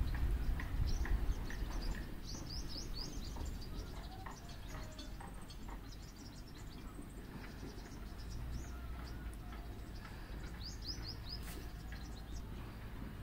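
Small birds chirping: quick runs of short, high, falling notes, thickest about two seconds in and again near the end. A low rumble sits under them, strongest in the first couple of seconds.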